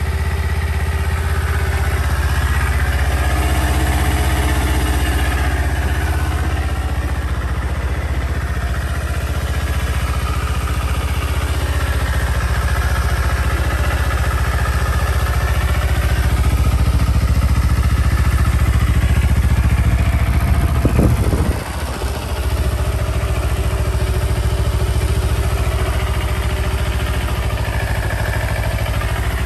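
Kawasaki Ninja 250R's water-cooled four-stroke parallel-twin engine idling steadily, in good running order. About two-thirds of the way through there is one brief burst, then a short dip in level.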